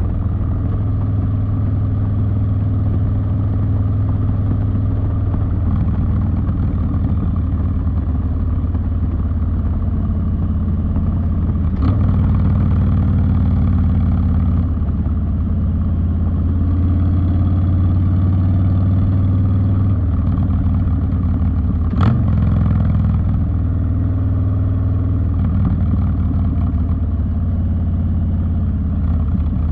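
Harley-Davidson Street Bob's V-twin engine running steadily through a TBR two-into-one exhaust, its pitch shifting only slightly. Two short sharp clicks cut through, about twelve and twenty-two seconds in.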